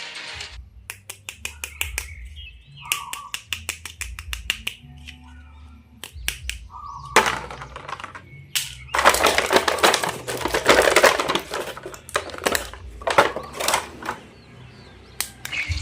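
Toy packaging and plastic parts being handled: a run of quick clicks and taps, then about two seconds of dense crinkling starting some nine seconds in, followed by more scattered taps.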